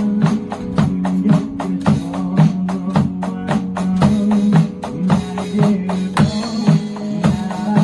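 Drum kit played along to a recorded pop-rock song: a quick, steady beat of drum and cymbal strokes over the song's music.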